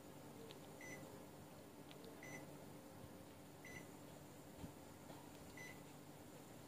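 Panasonic mini split air conditioner giving four short, faint electronic beeps a second or two apart, the beeps the unit sounds as it takes each command from its remote, over a faint steady hum. A soft low bump falls between the third and fourth beep.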